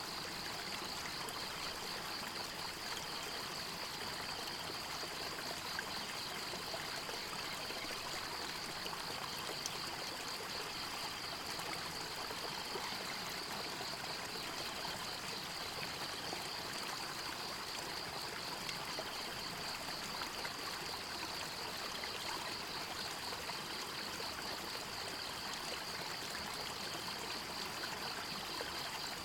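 A stream of water running and trickling steadily, with a continuous high, rapidly pulsing trill over it.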